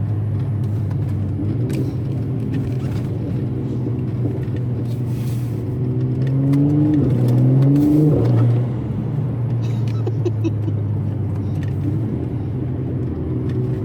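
Twin-turbo Mercedes-AMG engine and exhaust running under way, a steady note that climbs in pitch and loudness about six seconds in, peaks near eight seconds, then drops back to a steady cruise.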